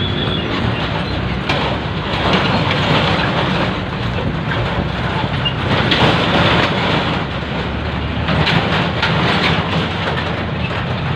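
A train running past: a steady rumble with wheels clattering over the rails.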